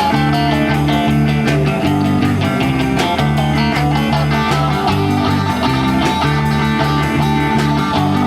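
Small rock band playing an instrumental passage: guitars strumming over bass and drums with a steady beat.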